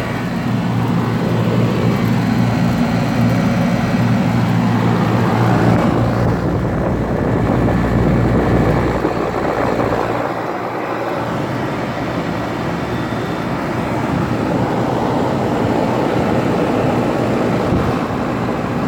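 A 1997 Janitrol 3-ton central air conditioner's outdoor unit running in cool mode: the Bristol compressor's steady hum under the rushing air of the condenser fan. The deep hum weakens about halfway through.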